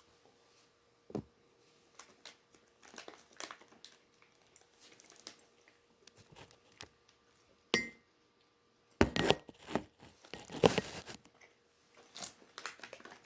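Plastic snack packet being handled: scattered crinkles and clicks, then a louder run of crinkling and rustling from about nine to eleven seconds in.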